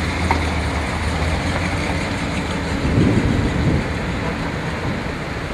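A 1939 Cadillac V16's flathead sixteen-cylinder engine running smoothly while the car is driven, under a steady hiss of road and wind noise. The sound grows briefly louder about three seconds in.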